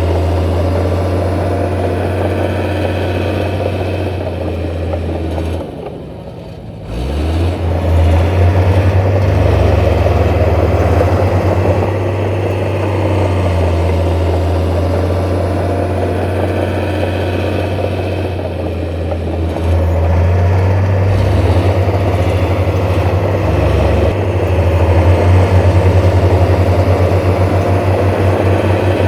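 Heavy diesel engine of earth-moving machinery running steadily. It dips briefly about six seconds in, then picks up again.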